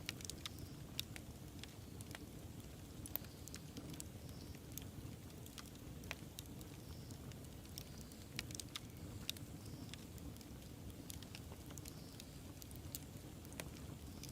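Wood fire burning with a steady low rumble, crackling and popping in scattered sharp snaps.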